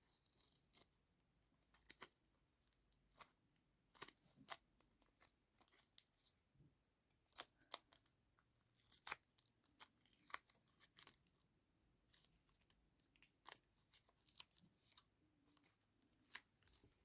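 Faint paper-crafting sounds: irregular sharp snips, clicks and brief rustles of paper and tape being cut, torn and handled.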